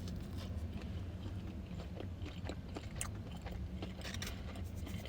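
Close-up mouth sounds of someone chewing food: small irregular wet clicks over a steady low hum.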